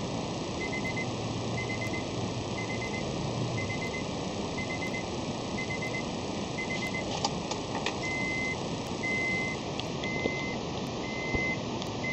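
A single-pitch electronic warning beep repeating about once a second, typical of a 1997 Honda Accord's key-in-ignition reminder sounding before the engine is started, over a steady background hiss. The beeps are short and faint at first and become longer and louder about two-thirds of the way through.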